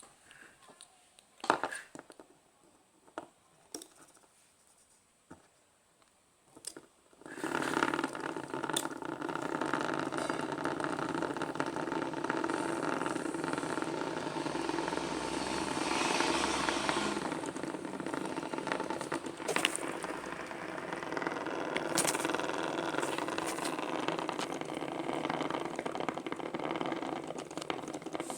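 A few clicks and handling knocks, then about seven seconds in a homemade electric fan switches on and runs steadily, its small motor and blades whirring.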